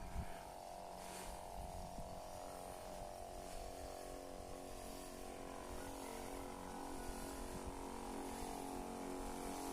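Crop sprayer's small electric pump motor humming steadily while herbicide is sprayed.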